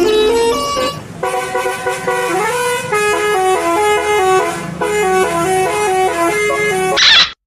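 Bus telolet horn, a multi-tone musical air horn, playing the Basuri telolet tune as a quick melody of stepping notes in several short phrases. A brief louder burst comes near the end, then the sound cuts off suddenly.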